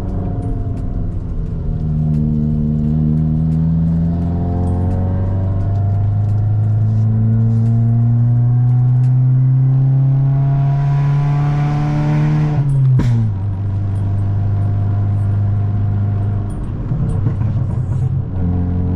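VW Golf 5 1.4 FSI four-cylinder petrol engine pulling under acceleration, its pitch rising steadily for about ten seconds. It then drops sharply at lift-off or a gear change and settles into a steady lower drone.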